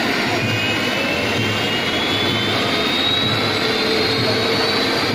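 Helicopter turbine engine running loud and steady, with a high whine that climbs slowly in pitch as the engine spools up.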